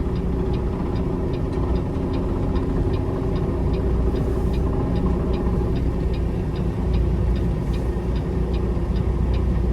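Peterbilt semi truck's diesel engine running steadily at low speed while the rig creeps through a tight turn, heard from inside the cab. A light, even ticking repeats about two and a half times a second over the engine.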